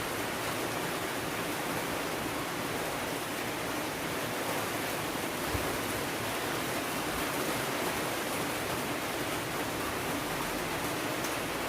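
Steady, even hiss of heavy rain falling, with a single soft thump a little past halfway.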